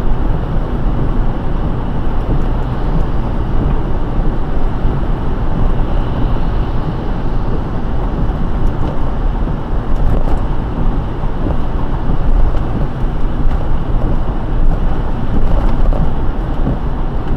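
A car driving on a rain-wet road: a steady, low rumble of road and tyre noise with a wet hiss.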